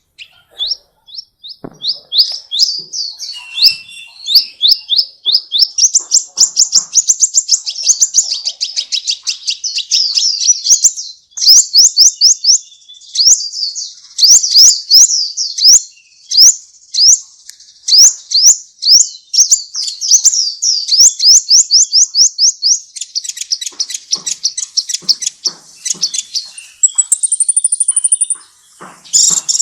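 A songbird singing long, fast runs of short, sharp, high chirps that go on almost without a break, with a higher drawn-out whistle near the end.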